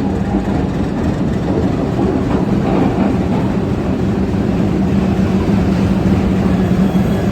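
Indian Railways AC Double Decker Express train running on the rails: a steady, loud noise of wheels on track, with a constant low hum.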